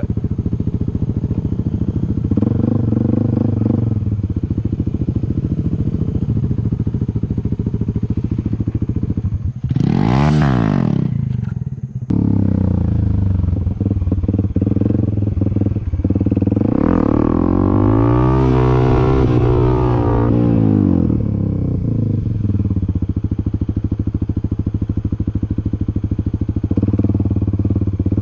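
Dirt bike engine running steadily. It revs up and back down quickly about ten seconds in, then again more slowly from about seventeen to twenty-one seconds, as the throttle is opened and closed.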